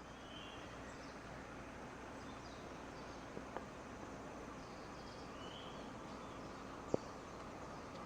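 Quiet outdoor ambience with small birds giving short high chirps several times, two soft clicks midway and one sharp click about seven seconds in.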